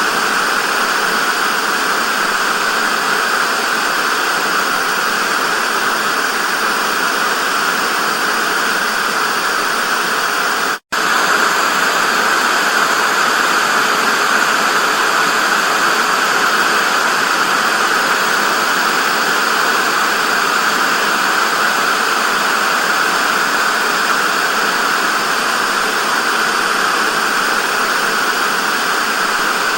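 Television static: a steady, even hiss, strongest in the middle range with little bass. It cuts out for an instant about eleven seconds in, then carries on unchanged.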